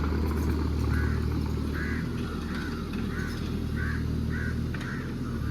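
Mini excavator's diesel engine running steadily, with a bird calling over it in a quick series of short repeated calls, about two a second.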